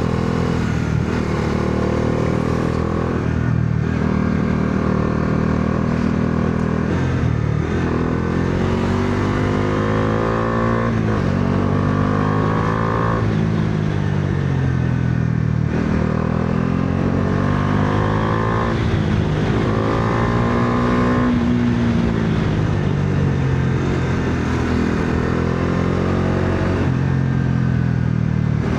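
Bajaj Dominar 400's single-cylinder engine under way. It revs up and then drops sharply in pitch several times over, as the rider shifts gears and rolls on and off the throttle.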